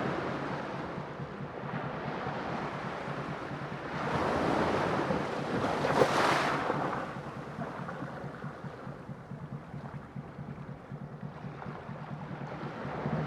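Sea surf: waves washing in, with one wave building and breaking about six seconds in before the wash recedes.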